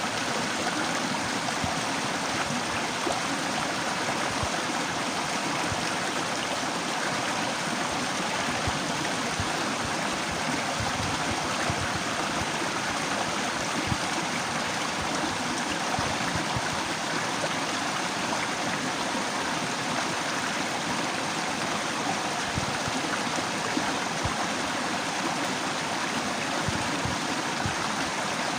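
Running water of a small waterfall: a steady, even rush with no breaks.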